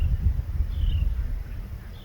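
A bird's short, high call, falling in pitch, repeated about once a second, over a low rumble that fades toward the end.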